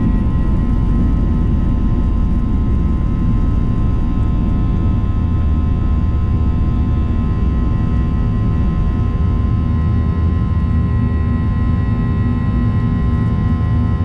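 Boeing 737-800's CFM56-7B jet engines at high climb thrust, heard inside the cabin: a steady low roar with several steady fan tones whining above it.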